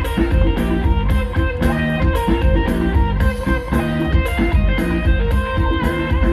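Live luk thung band playing an instrumental passage: electric guitar over bass and a steady drum beat, loud through the concert PA.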